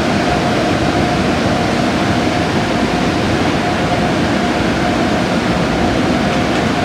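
Car wash machinery running: a loud, steady rushing noise with a faint steady hum under it.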